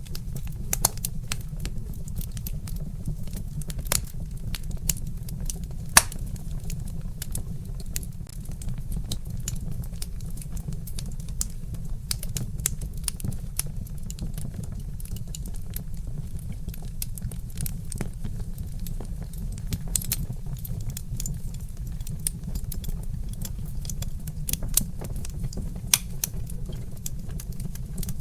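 Wood fire crackling: irregular sharp pops and snaps from burning logs over a steady low rumble, with one louder pop about six seconds in.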